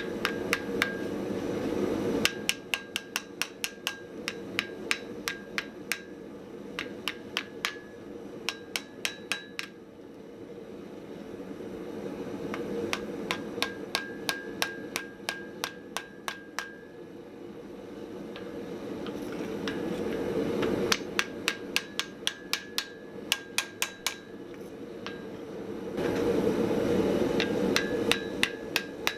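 Hand hammer striking hot mild steel on an anvil in runs of blows, about three a second, each with a short metallic ring, broken by short pauses. A steady rushing noise runs underneath and swells louder between some of the runs.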